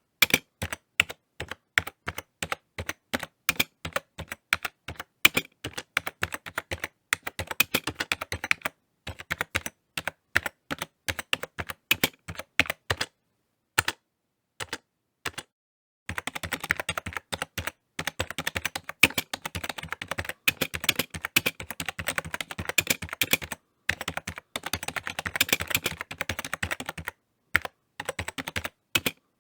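Typing on a computer keyboard: irregular key clicks with short pauses. A break of a couple of seconds comes around the middle, and after it the typing is faster and denser.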